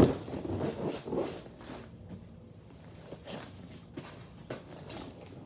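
Packaging being handled as a doll's box is worked open: a sharp click at the start, then scattered light taps and rustles.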